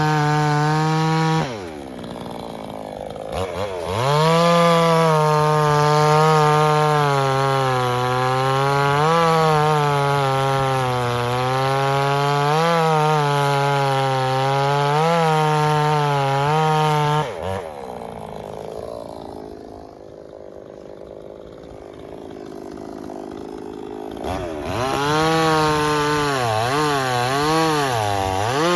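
Two-stroke gasoline chainsaw running at full throttle, its pitch dipping and wavering as the chain bites into a log. It briefly drops and revs back up a few seconds in, falls to idle for about seven seconds past the middle, then revs up and cuts again near the end.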